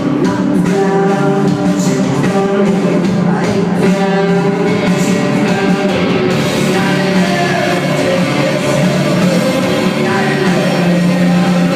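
Rock band playing live at full volume: electric guitars over bass and drums, a dense, steady wall of sound.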